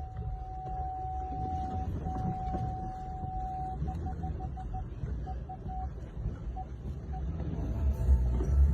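A car's electronic warning beeper: one steady tone, broken once after about two seconds, then short beeps that come further and further apart, over a low rumble.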